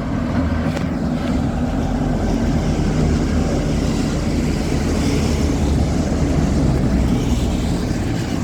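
Diesel locomotive engine running on a light power move, a steady low drone.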